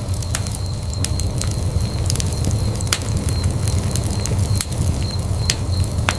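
Wood fire in a fireplace burning with a steady low rumble and irregular sharp crackles and pops, several in a few seconds.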